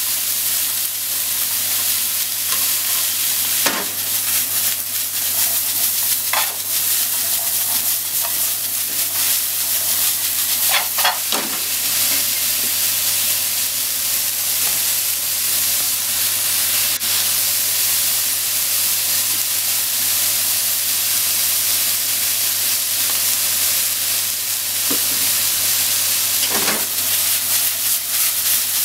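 Bean sprouts, cabbage, carrot and ham sizzling steadily in a hot frying pan as they are stir-fried with chopsticks, with a few short knocks now and then.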